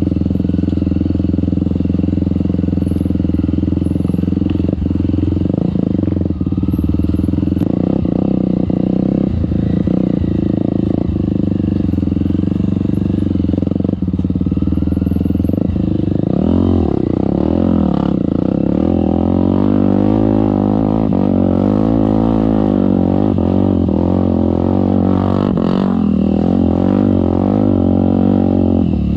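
Trail motorcycle engine running steadily under load. About halfway through its pitch starts rising and falling over and over as the throttle is worked.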